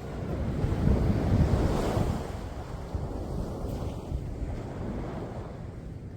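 Sea waves breaking on the shore: a surge of surf swells up in the first two seconds, then slowly washes back and fades. A low rumble of wind on the microphone runs under it.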